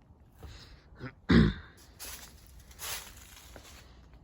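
A person clears their throat once, short and loud, about a second and a half in. Fainter noisy rustles follow it.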